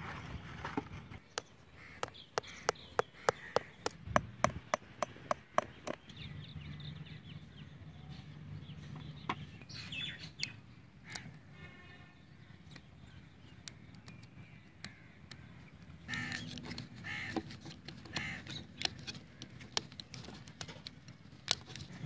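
Birds calling on and off, with a quick run of about a dozen sharp clicks, around three a second, between about two and six seconds in.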